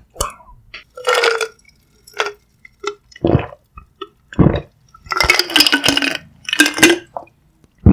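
Close-miked mouth sounds of eating sundae gukbap: a string of separate wet slurps and swallows, about seven in all, with the longest near the end.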